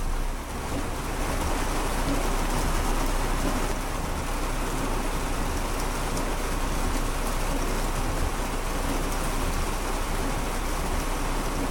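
Heavy rain pelting the roof and windows of a car, a steady dense drumming heard from inside the cabin.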